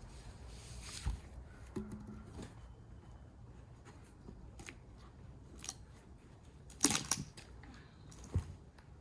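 A few scattered knocks and clicks over a quiet background, the loudest a short cluster about seven seconds in.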